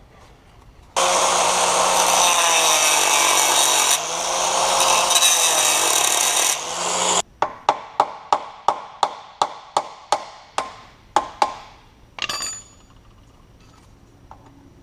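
A power tool runs for about six seconds, its pitch sagging and recovering under load. Then a hammer drives a punch against a rounded-out engine cover plug, about fifteen sharp strikes at roughly three a second, followed by a brief clatter.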